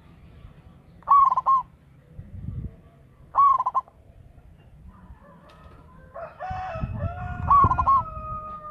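Zebra dove (perkutut) calling: three short bursts of quick cooing notes, a couple of seconds or more apart. Near the end a longer, held call from another bird overlaps.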